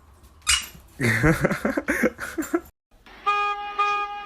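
A horn-like tone honking in short even pulses, about two a second, in the last second or so. Before it, a loud rising and falling vocal sound, a voice or an animal's cry, ending abruptly.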